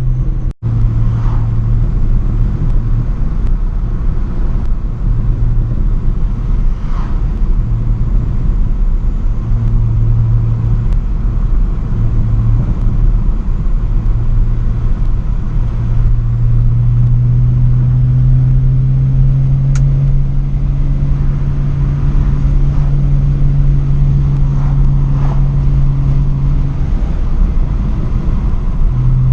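Straight-piped BMW E90 exhaust while driving: a loud, low drone that comes and goes, then holds at one steady pitch for about ten seconds in the second half. The sound cuts out for a split second near the start.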